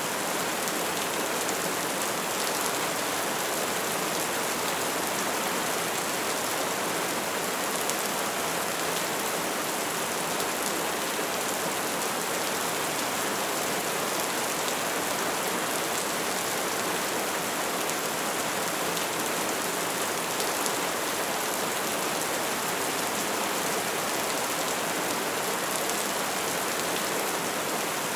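Steady soft rain falling, an even hiss of drops with faint individual patters, unchanging throughout.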